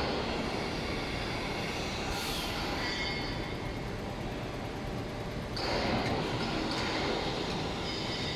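Injection moulding machine running an 8.5 g, 16-cavity bottle-preform mould: steady machine noise with a high squealing edge, swelling louder at the start and again about five and a half seconds in.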